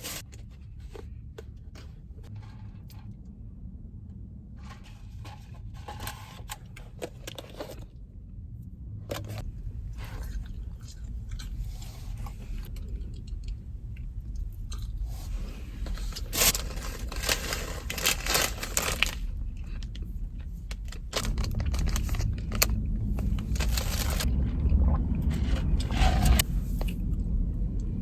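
Crunching and scraping of a Chick-fil-A market salad being handled and eaten, in irregular clicks and crackles. A low rumble grows louder from about 21 seconds in.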